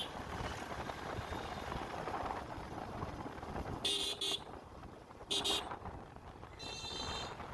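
Vehicle horn honking in two short toots about a second and a half apart, followed near the end by a longer horn blast of a different pitch. Steady wind and road rumble from a moving motorcycle run underneath.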